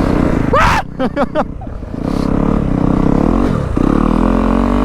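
Dirt bike engine running, with a few short, quick revs about a second in, then climbing steadily in pitch as it accelerates near the end.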